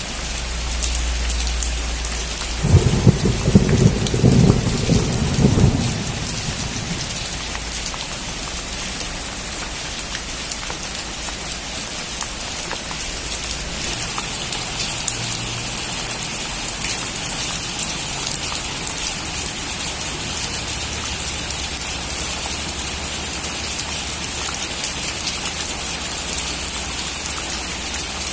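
Heavy rain drumming on a metal roof, with a crack and rumble of thunder that starts about three seconds in and lasts about three seconds as the loudest sound. Around halfway through, the rain grows brighter and a little heavier.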